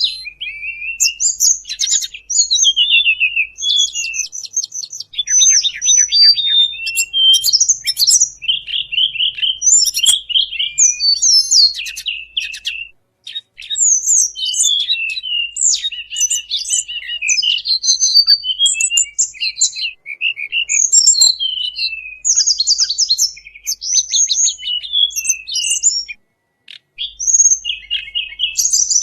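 Recorded song of the tledekan bambu, played as a bird-trapping lure call: a fast, unbroken stream of varied high chirps, whistles and trills, pausing briefly twice.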